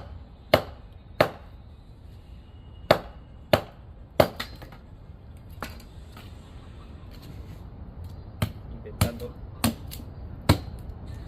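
Firewood being chopped: about ten sharp blows at an uneven pace, with a pause of a few seconds in the middle.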